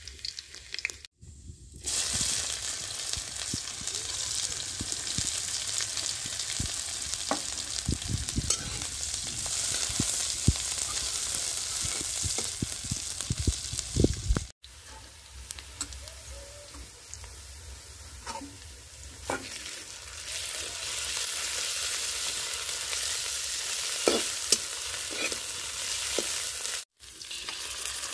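Sliced onion and garlic sizzling in hot oil in an aluminium kadai, with a metal spatula scraping and tapping the pan as they are stirred.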